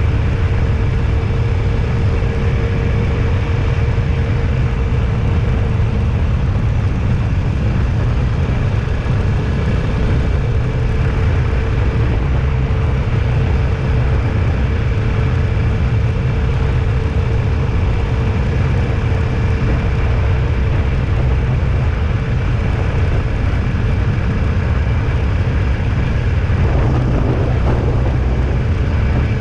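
Steady rumble of a vehicle on the move, heaviest in the low range, with a faint steady hum above it.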